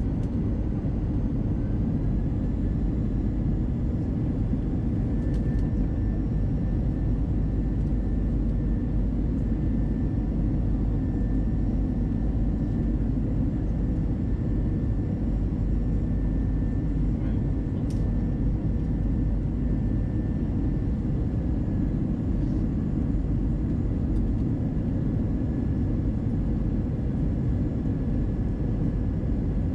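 Airbus A320-200 cabin noise in flight during the approach: a steady rush of airflow and engine noise, heavy in the low end, with a faint steady high tone running through it.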